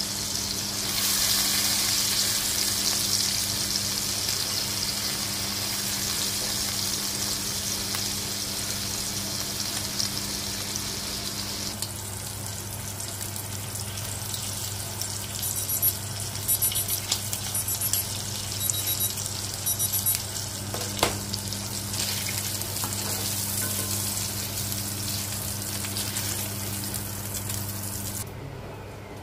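Lamb kofta frying in oil in a cast iron skillet: a steady sizzle, strong for the first dozen seconds and then lighter, over a steady low hum. A few clicks and knocks come in the middle, and the sizzle drops out just before the end.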